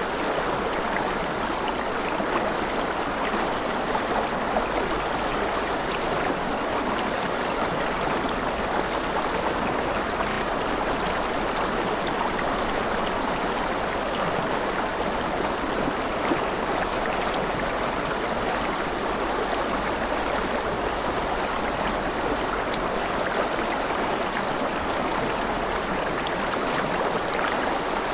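River water flowing and splashing: a steady, even rush of moving water.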